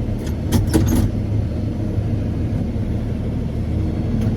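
Heavy farm vehicle engine running steadily at low speed while it is maneuvered, with a quick cluster of sharp metallic clanks or rattles in the first second.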